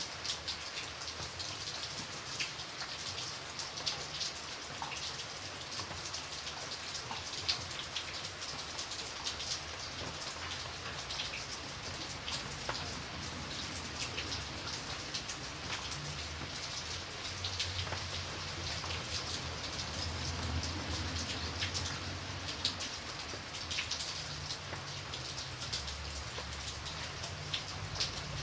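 Steady rain with many close individual raindrops ticking on a surface, over a faint low rumble that swells slightly in the second half.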